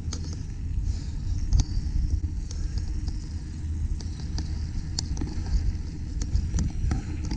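Wind buffeting a moving camera's microphone as a low steady rumble, with scattered sharp clicks and rattles of the ride over rough ground.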